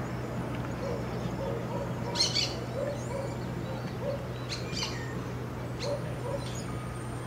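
Wild birds calling: sharp, high calls about two seconds in and again around five and six seconds in, with short, soft low call notes in between. A steady low hum runs beneath.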